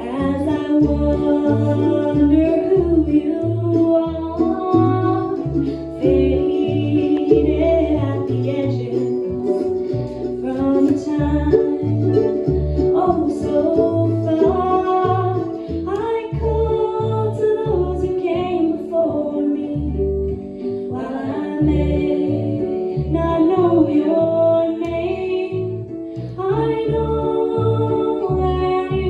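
Bluegrass-style acoustic trio of harp, mandolin and upright bass playing, with a woman singing over the plucked strings and a steady pulsing bass line.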